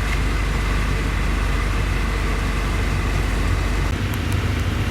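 A car's engine running steadily with a low drone. The pitch and level shift slightly about four seconds in.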